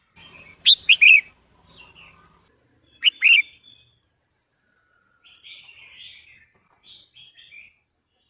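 Female red-whiskered bulbul calling: a loud burst of three quick notes about a second in, two more about three seconds in, then softer chattering notes near the end.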